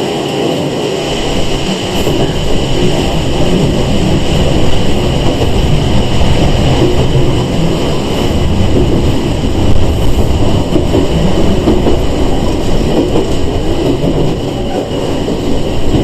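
Sangi Railway 101-series (ex-Seibu 401) electric train heard from inside the car while running: a steady rumble and rattle of the wheels on the rails, with a faint steady whine above it.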